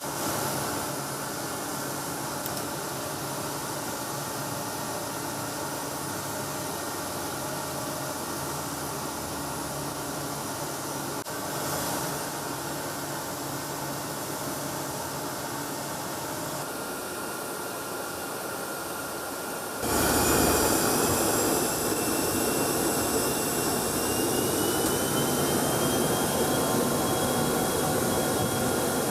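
Steady jet aircraft engine noise with several steady tones. About twenty seconds in it jumps suddenly louder and brighter, and a high whine slowly rises in pitch.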